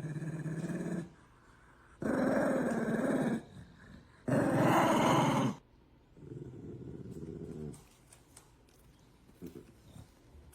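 A dog growling in four drawn-out bouts of a second or so each, with short pauses between them; the third is the loudest and the last is lower and quieter.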